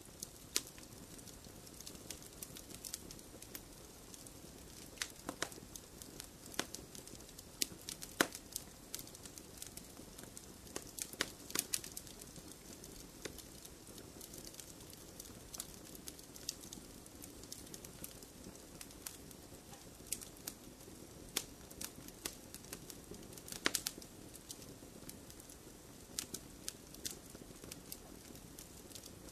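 Wood fire crackling in a fireplace: a soft steady hiss of flames under irregular sharp pops and snaps, a few louder than the rest.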